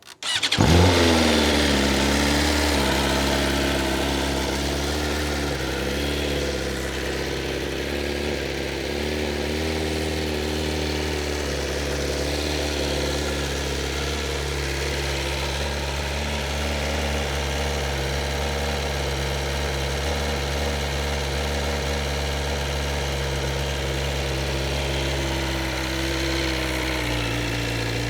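BMW S1000RR inline-four engine on a cold start: it fires about half a second in, flares briefly and loud, then settles into a steady idle through the stock Akrapovic exhaust. The idle wavers a little for the first few seconds before holding even.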